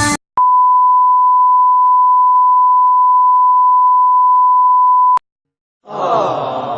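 A single steady high beep held for about five seconds, the classic censor bleep sound effect, cutting off sharply. Near the end a short pitched sound with wavering tones begins.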